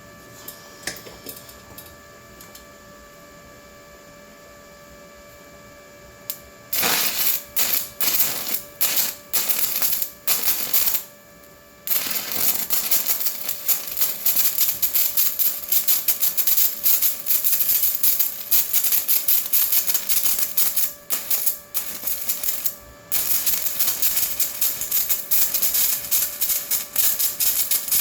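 Stick (SMAW) welding arc: a few short stuttering strikes that break off, then the steady frying crackle of the arc running a bead, interrupted twice for a moment. Before the first strike only a low hum with steady tones is heard.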